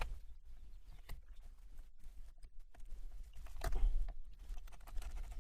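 Knife work on a rockfish being filleted: scattered taps, clicks and scrapes of the blade and fish handling, with a louder cluster of knocks about three and a half seconds in.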